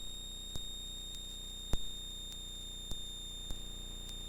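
Cessna 172RG cockpit stall warning horn sounding a steady high-pitched tone during the landing touchdown and rollout, with a few sharp clicks at uneven intervals.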